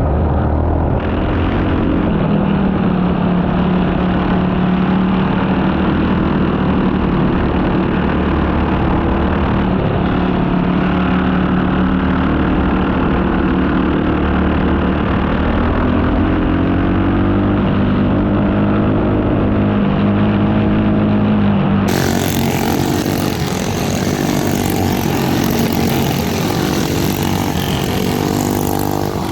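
Four-stroke racing kart engine running hard, its pitch rising and falling as it accelerates and eases off through corners. About three quarters of the way through, a steady hiss joins it.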